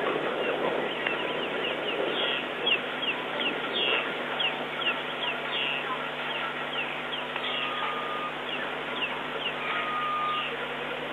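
Wild birds calling: a run of short, quick downward chirps, several a second, over a steady low hum.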